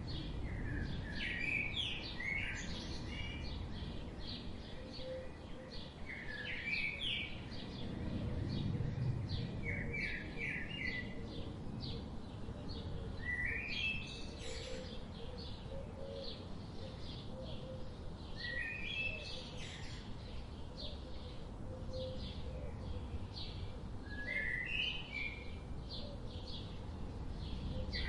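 Birds chirping: one bird repeats a short phrase of quick notes every few seconds, with many higher, rapid chirps between, over a steady low rumble.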